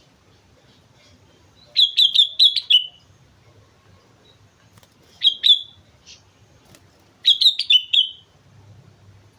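Sooty-headed bulbul singing: three short phrases of quick, clear notes, about two, five and seven and a half seconds in, with pauses between.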